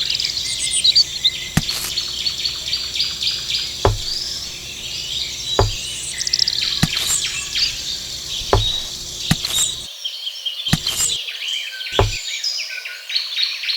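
Birds chirping and insects calling steadily, with about eight sharp clicks or knocks at irregular intervals.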